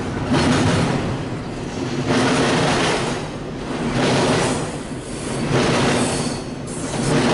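Double-stack intermodal freight train rolling past, a steady rumble of steel wheels on rail that swells and fades about every two seconds as the cars go by.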